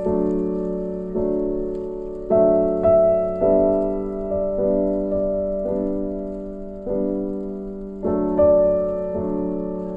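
Background piano music: slow, gentle chords struck about once a second and left to ring out.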